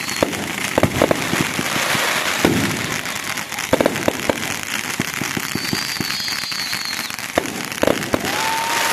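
Fireworks going off: a dense crackle with many sharp pops and bangs. A thin high whistle comes about two thirds of the way through, and a lower steady whistling tone starts near the end.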